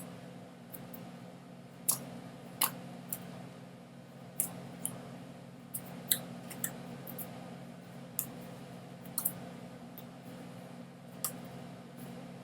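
Irregular sharp clicks, roughly one a second and unevenly spaced, over a steady low hum.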